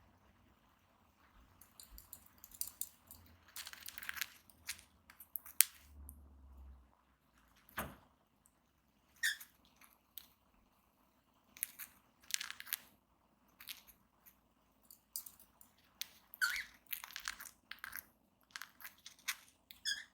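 Cockatiels grinding their beaks: irregular runs of soft scratchy, crunching clicks with short pauses between them. Beak grinding is the sound of a relaxed, content cockatiel.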